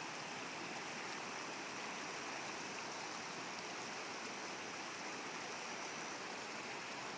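River water flowing, a steady, even rush with no other events.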